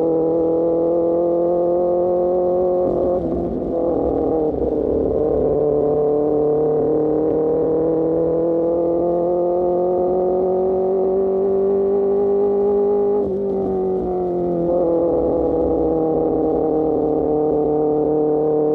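Superbike engine through an Austin Racing GP1R exhaust, under way with the note climbing slowly as it pulls through the gears. The pitch drops with an upshift about three seconds in and again about thirteen seconds in, then climbs again.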